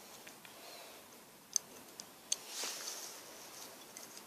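Lego plastic pieces being handled and pressed into place: two sharp little clicks about a second apart, then a soft rustle of bricks.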